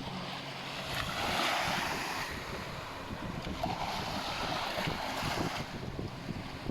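Water washing in swells, with wind noise on the microphone.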